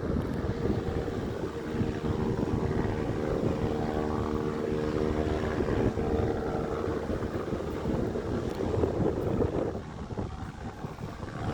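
Propeller airplane engine droning at a steady pitch, fading out about two-thirds of the way through, with wind rumbling on the microphone.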